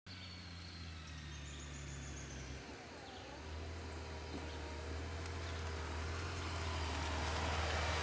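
A vehicle engine running with a steady low hum that grows slowly louder, while birds chirp faintly in the background.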